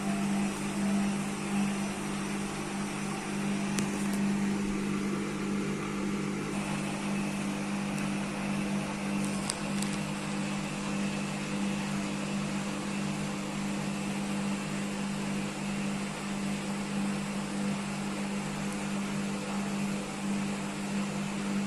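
IFB washing machine running its spin-only program with a single towel in the drum: the motor and drum turn at a steady speed, giving a steady hum.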